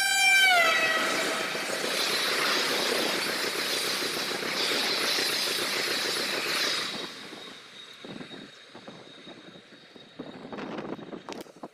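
Express train running through a station at speed without stopping. The locomotive's horn sounds at the start and drops in pitch as it passes. The coaches then rush by loudly with wheel clatter, and about seven seconds in the sound falls away to faint clicks as the train recedes.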